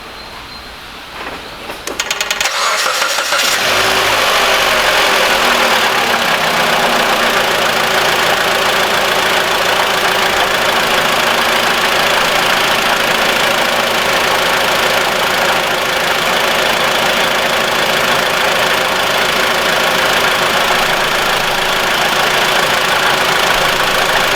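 Mitsubishi ASX's 1.8-litre petrol engine cranked by the starter and firing about two seconds in, then idling steadily. The belt drive runs without the rumble heard before, now that a known-good idler roller has replaced the suspect upper one.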